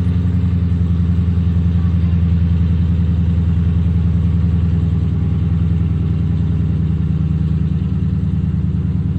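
Drag car's engine idling loudly and steadily, with a fast, even pulse to the exhaust.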